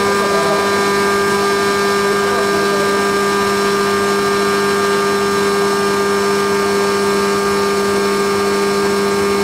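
Haas CNC milling machine running steadily while machining a cam on its fourth-axis rotary indexer, a constant loud hum with several steady tones over a hiss.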